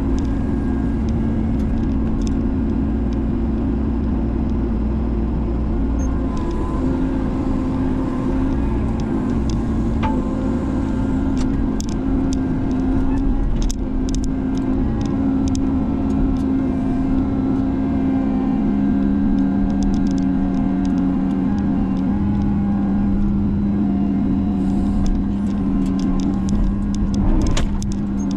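Spider excavator's engine running steadily under hydraulic work, its pitch shifting partway through, with scattered sharp clicks and knocks over it.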